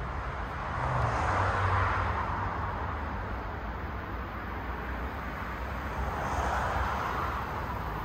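A train rolling past on the track: a steady rumble with rolling noise that swells about a second in and again near the end.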